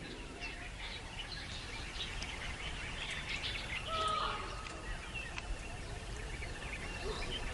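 Faint wild outdoor ambience: scattered bird chirps and calls over a steady low background hiss, with one brief, clearer call about four seconds in.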